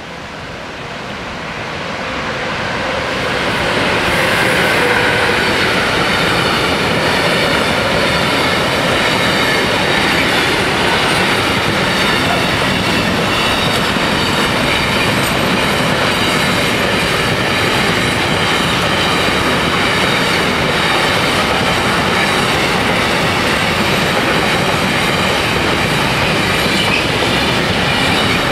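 A train running close by on rails, growing louder over the first four seconds as it comes near, then a loud, steady rush of wheels with faint high ringing tones over it.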